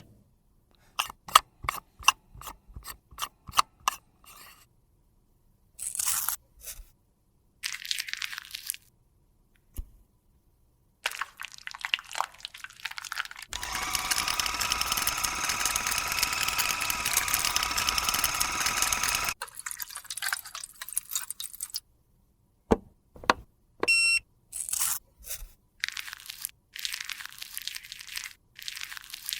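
Close-up handling sounds of restoring a cosmetic foundation product: a run of about eight sharp clicks, about two a second, then crunching and scraping. A steady hiss runs for about six seconds in the middle.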